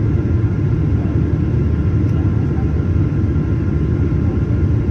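Steady low rumble of a Boeing 737-900ER's engines and airflow heard inside the passenger cabin, even in level throughout.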